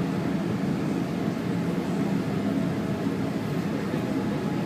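SEPTA train running: a steady low rumble with no breaks.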